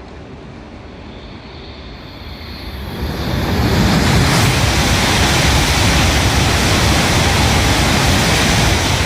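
Tohoku Shinkansen train passing through the station at high speed: a rising hiss as it approaches, then about three seconds in a loud, steady rushing roar of air and rails.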